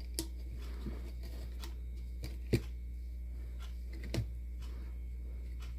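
A few light clicks and taps from handling the snow globe, the loudest about two and a half seconds in, over a steady low electrical hum; its original motor does not start.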